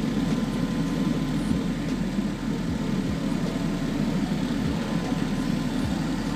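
Audi A6 V6 engine idling steadily and warm, heard up close from beside the heater hoses.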